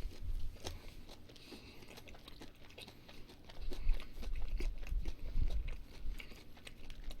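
Close-miked chewing and mouth sounds of someone eating: wet smacks, small crunches and clicks, fuller and louder from about the middle on.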